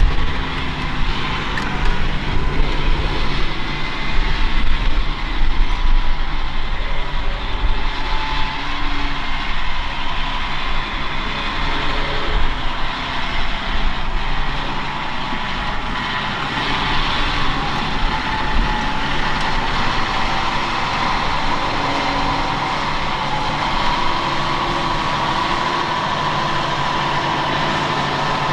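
John Deere 6250R tractor's diesel engine running, a steady heavy rumble with a faint whine above it. The sound is uneven for the first half and settles into a smoother drone later.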